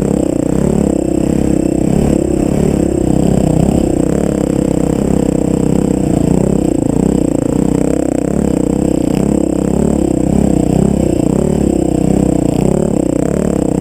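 Off-road vehicle's engine running on a trail, its pitch rising and falling again and again with the throttle.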